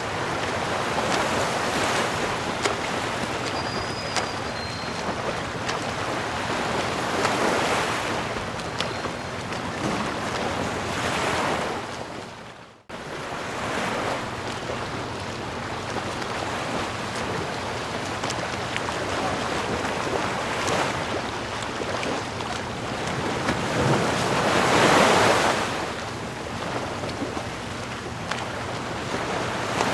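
Sea waves washing in, a steady surf noise that swells and ebbs every few seconds. About 13 seconds in it fades away for a moment and then cuts abruptly back in, like the join of a looped recording.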